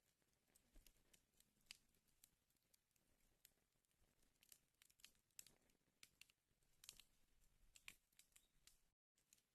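Wood fire crackling in a fireplace: faint, irregular snaps and pops over a soft hiss. The sound drops out for an instant near the end.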